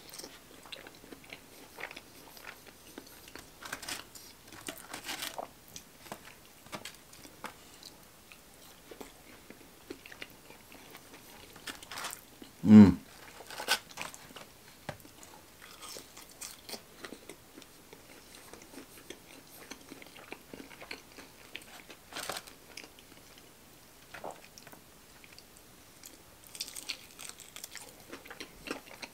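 Chewing and biting of fried chicken fingers and crinkle-cut fries, with many small scattered crunches. About halfway through, a short hum from the eater is the loudest sound.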